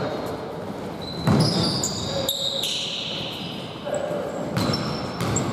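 Live basketball game play echoing in a gym: sneakers squeaking on the court in many short high-pitched chirps, a basketball bouncing with dull thuds, and players' distant voices.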